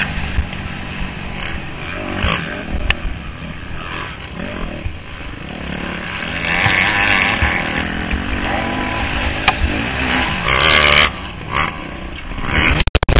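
250cc four-stroke motocross bike engine revving up and backing off repeatedly through the gears under race riding, heard from a helmet camera over a steady rush of wind and track noise. The sound cuts out in a few brief gaps near the end.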